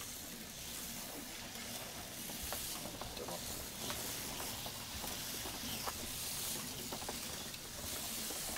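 HO-scale slot cars running on the track: a steady high hiss from their small electric motors and pickups on the rails, with scattered light clicks.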